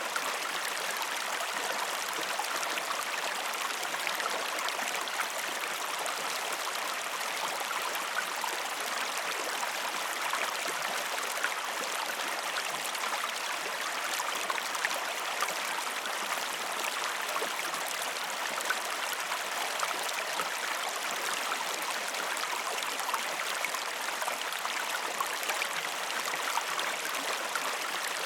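Waterfall: water pouring and splashing steadily, a constant hiss with fine spattering and no change through the stretch.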